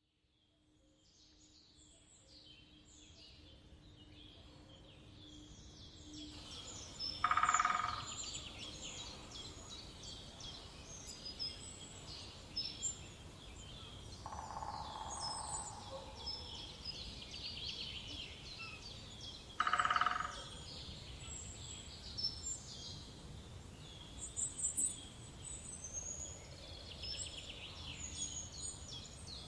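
Woodpecker drumming: two short rapid rolls of knocks on resonant wood, about 7 seconds in and again about 20 seconds in. Behind them is a steady chorus of small birds chirping and singing, fading in at the start.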